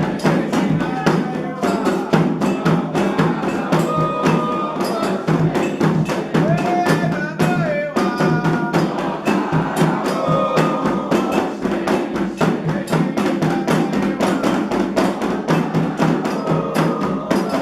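Candomblé ritual drumming: fast, steady hand-drum strokes with a bright bell-like timeline, under voices singing a chant.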